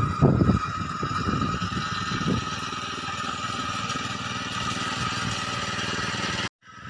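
Tractor engine running steadily with a constant whine over its noise and some irregular low knocking in the first couple of seconds; the sound cuts off suddenly near the end.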